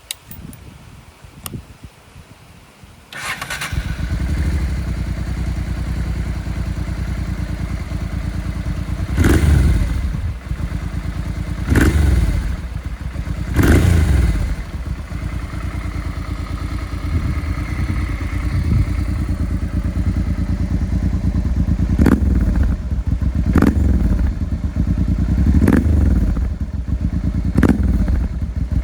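Honda Bros 650's 647 cc V-twin starting up about three seconds in, then idling with a lumpy beat through a left-exit muffler modified from the stock one, with a reverse-cone perforated core. The throttle is blipped briefly several times, and each blip gives a crisp rise in revs.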